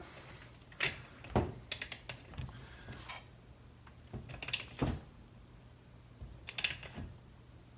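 A handful of scattered metallic clicks and clinks as a torque wrench and a stud-installing collet tool are fitted onto a chainsaw bar stud, over a faint steady low hum.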